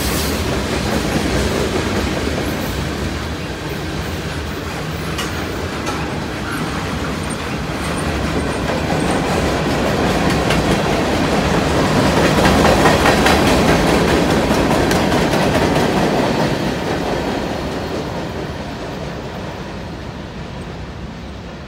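BNSF manifest freight train of tank cars and steel coil cars rolling past: a steady rumble and rattle with wheels clicking over the rail joints. It is loudest about halfway through, then fades as the train draws away.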